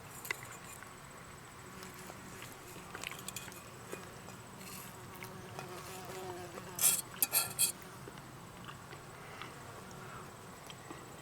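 An insect buzzing steadily, with a short run of sharp clicks about seven seconds in.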